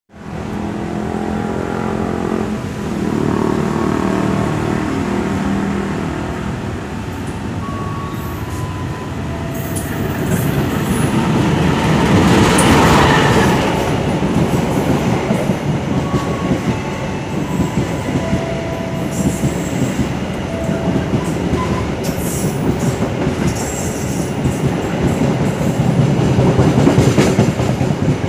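A locomotive-hauled passenger train approaching and running past on the near track. It is loudest about halfway through as the front passes, then the coaches roll by with a steady rumble and clattering wheels.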